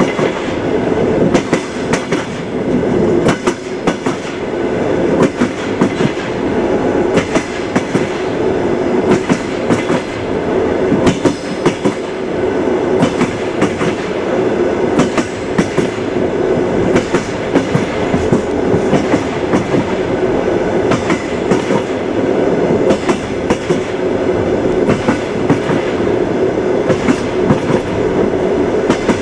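Train running steadily on the rails, its wheels clacking again and again over rail joints above a continuous rolling rumble.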